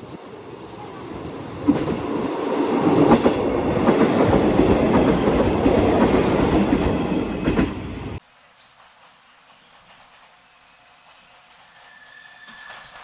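A train passing close by: wheel and rail noise swells to a loud run with a few sharp clacks, then cuts off abruptly about eight seconds in, leaving a much quieter background.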